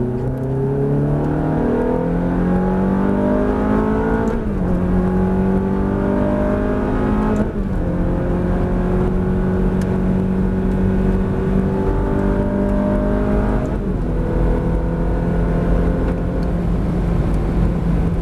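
Ferrari engine heard from inside the cabin, accelerating hard at full throttle, its pitch climbing through the gears. There are three upshifts, about four and a half, seven and a half and fourteen seconds in; the climb is slower in the higher gears.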